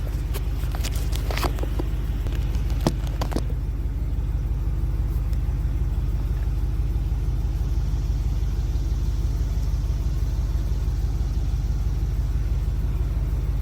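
An engine runs steadily with a low rumble, with a few sharp clicks and knocks over the first three seconds or so.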